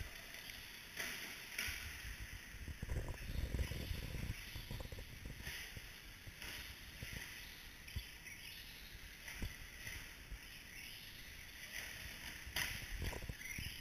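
Radio-controlled short-course trucks running around a dirt track: an uneven hiss and rumble of motors and tyres, with a few sharp knocks.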